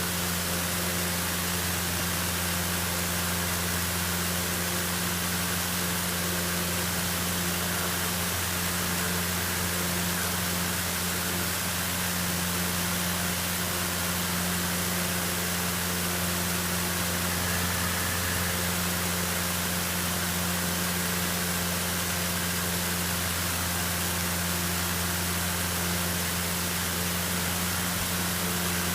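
Cessna 152's four-cylinder Lycoming piston engine and propeller running steadily at climb power, an even low drone under a constant hiss of airflow.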